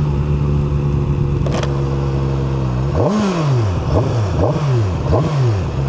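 QJMotor SRK 921 RR's inline-four engine running steadily, then from about three seconds in revving up and down four times in quick succession.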